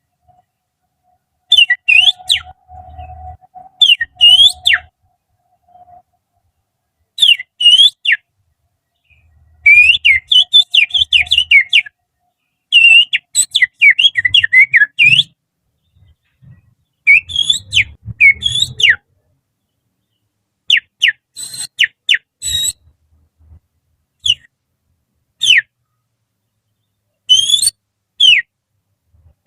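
Finger whistling through the little finger, imitating the song of an oriental magpie-robin (kacer). It comes as loud bursts of sharp, quickly sliding whistled notes, in phrases of a second or two with short pauses between them.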